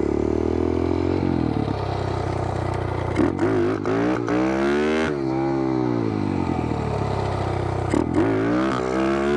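Small single-cylinder four-stroke pit-bike engine running, then revved hard twice: the pitch climbs sharply about three seconds in and again about eight seconds in, easing off in between. This is the throttle being snapped open with the clutch popped to lift the front wheel into a wheelie.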